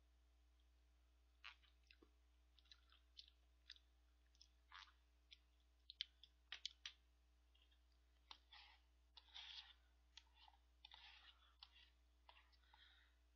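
Faint eating sounds of instant ramen-and-rice: many short mouth clicks and smacks of chewing, with longer scraping, rustling noises in the second half as a utensil works in the paper cup.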